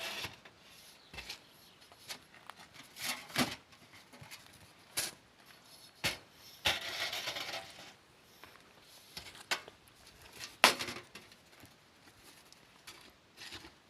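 Scattered knocks and clicks, about a dozen single strokes at uneven intervals, with a longer scraping rustle about seven seconds in.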